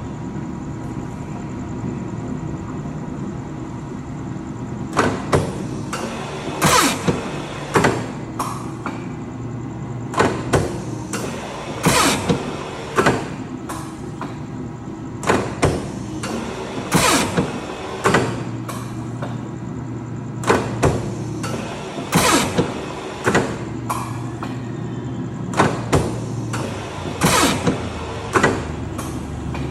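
Programmable guillotine paper cutter running: a steady motor hum with repeated sharp clacks and thumps as the machine cycles, often in quick pairs or clusters every second or two. A deeper hum comes in for several seconds past the middle.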